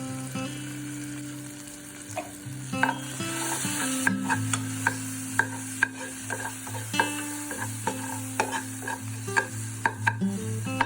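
Leftover idli pieces frying in a pan and being stirred with a spatula: a steady sizzle, with the spatula clicking and scraping against the pan many times from about two seconds in.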